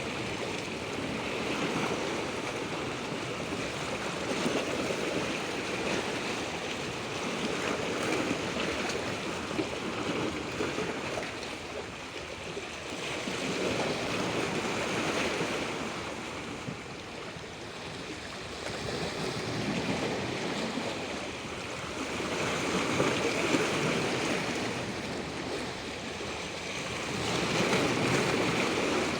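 Rushing natural water, a steady wash that swells and eases every few seconds.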